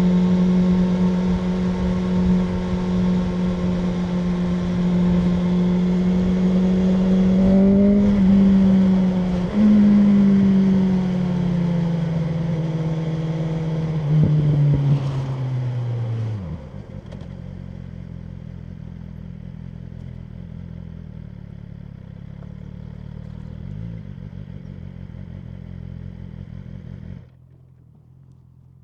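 BMW M1000R Competition's inline-four engine running at steady revs, with a gear change about eight to ten seconds in, then falling in pitch as the bike slows and settling to a quieter idle about sixteen seconds in. The idle cuts off abruptly near the end.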